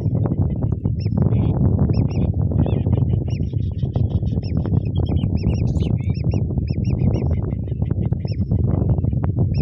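Strong wind buffeting the microphone in a steady low rumble, over many short, high whistled calls of whistling ducks (belibis), several a second.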